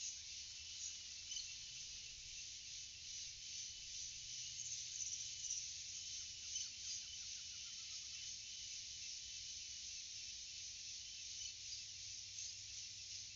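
Tropical forest ambience: a steady, dense chorus of insects, with a short run of quick bird notes about six seconds in.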